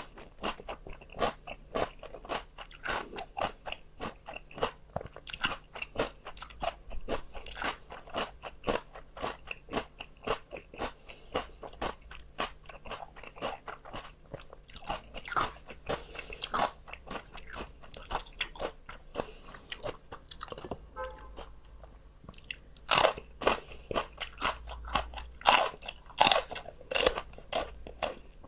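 Close-miked crunching and chewing of raw vegetables: a dense run of crisp crunches, a short lull about twenty seconds in, then louder bites near the end.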